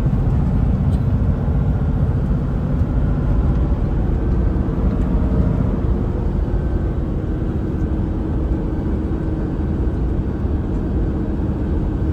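Kenworth T680 semi-truck's engine and road noise heard from inside the cab while it drives downhill: a steady, low rumble with no sudden changes.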